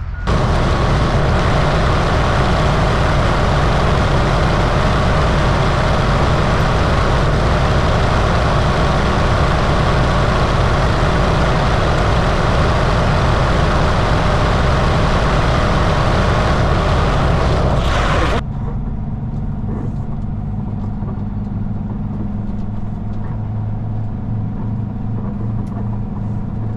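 Semi truck on the move: loud, even road and wind noise. About 18 seconds in it cuts to a quieter, steady low engine hum.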